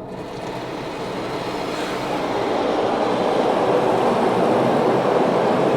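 Rinse water from a Ryko Radius automatic car wash spraying onto the car, heard from inside the car: a steady rushing hiss that grows louder over the first few seconds and then holds.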